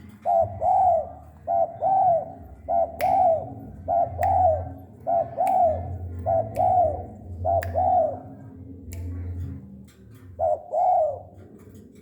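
Spotted dove (tekukur) cooing its song over and over, each phrase a quick short note or two followed by a longer arched coo, about one phrase a second, with a short pause near the end before one more phrase. A few sharp clicks sound between the phrases.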